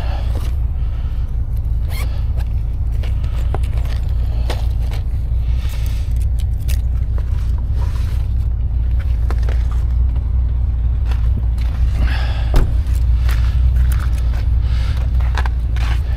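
Steady low rumble of an idling car, with scattered light clicks and scrapes from gear being handled. The sharpest click comes about twelve seconds in.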